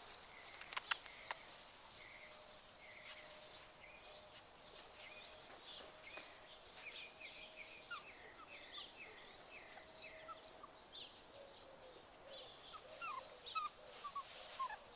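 Young puppies squeaking and whimpering: many short high-pitched squeaks in quick succession, with louder falling squeals near the end.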